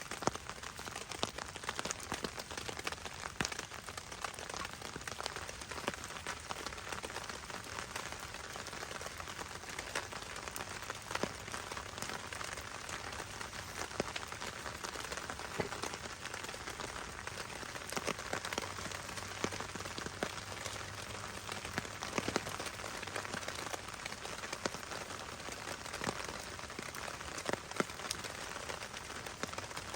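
Steady rain falling, a constant hiss dotted with frequent sharp, irregular drop hits.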